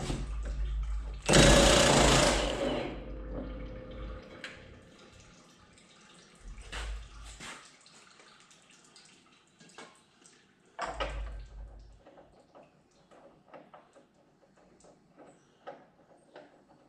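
Impact wrench run in three bursts on a zero-turn mower's blade bolts, loosening them. The first burst is the longest and loudest, about a second in; shorter ones follow near the middle. Small clicks and knocks of tools and parts come after.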